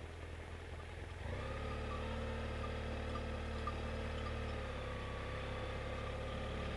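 Motorcycle engine running at low road speed. About a second in it grows louder and takes on a steady, higher engine note, which holds until near the end.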